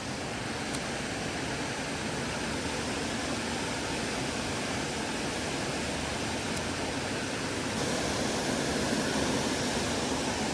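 Creek water running, a steady rushing hiss that gets a little louder near the end.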